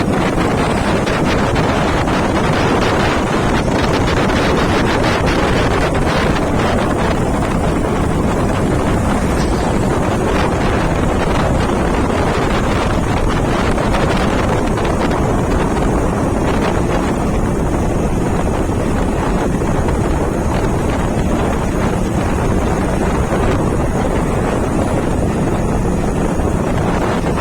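Steady, loud wind rush buffeting the microphone of a camera on a moving motorbike, masking the engine and road noise.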